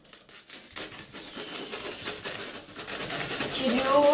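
Rubber balloon being rubbed quickly back and forth on a child's hair to charge it with static: a dense scratchy rubbing that grows louder, with a squeaky pitched tone coming in near the end.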